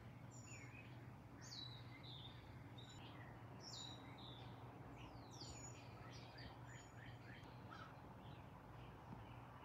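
Faint birdsong: many short chirps and whistles, over a low steady hum.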